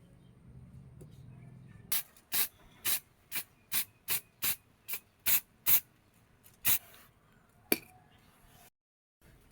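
Hand hammer striking steel in a forging session: about ten blows at a steady pace of roughly two and a half a second, then two more single blows spaced about a second apart.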